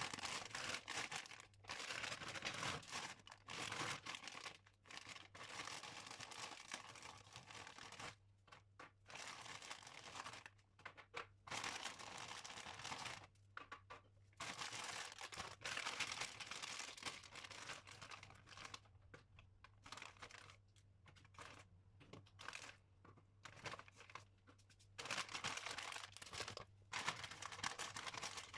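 Dry scratching and crinkling in bursts of a second or more, separated by short pauses, like paper being handled or scratched at close range in a small room.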